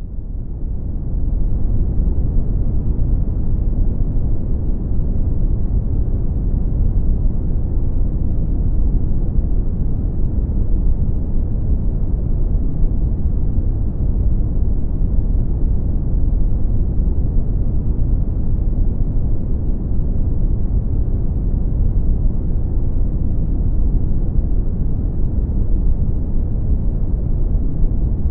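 Brown noise: a steady, deep rushing hiss with most of its energy in the low end, fading in over the first second or so.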